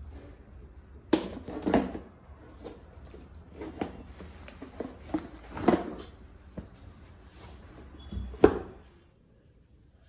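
Irregular knocks and clatter of household objects being handled, the sharpest knock near the end.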